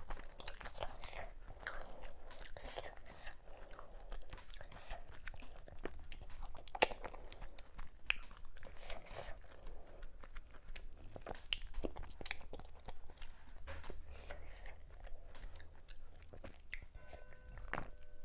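Close-up chewing and biting of a meal of fufu with okra soup and assorted cow meat: wet mouth noises broken by many sharp, irregular clicks and smacks. A faint steady tone appears near the end.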